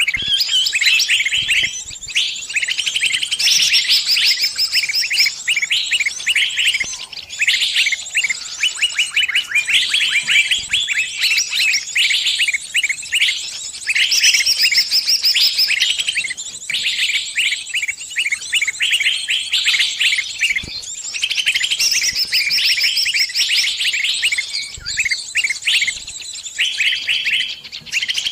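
Distress calls of a trapped small bird: rapid, high chirps in a near-continuous stream with only brief breaks, a bird caught and calling to others of its kind for help.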